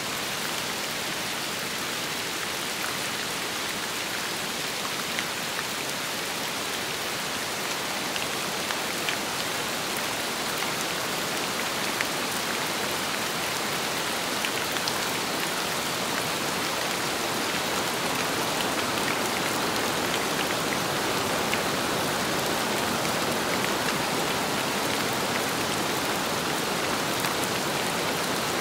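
Steady rain falling in the wind, a dense even patter with scattered sharper drop ticks, growing slightly louder in the second half.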